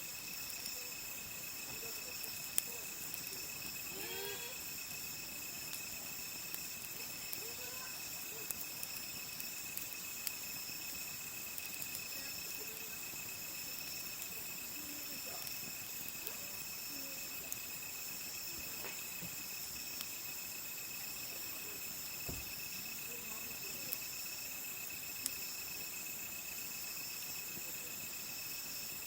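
Night insects chirping in a steady chorus, several high continuous trills at once, with sparse sharp crackles and pops from a wood campfire.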